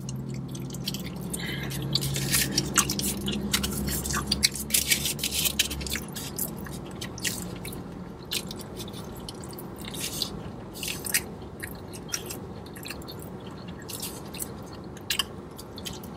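A person biting into and chewing a mouthful of chicken burrito, with irregular wet mouth clicks and smacks. A low hum runs under the first six seconds, then stops.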